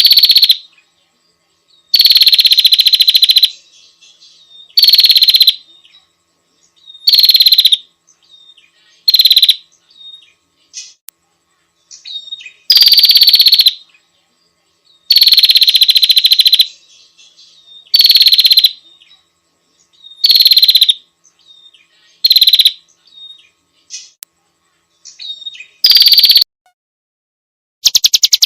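Prinia giving a loud, harsh, rattling call again and again, about every two seconds, about a dozen times. Each call opens with a short downward slide in pitch. Just before the end, a different fast, continuous pulsed call begins.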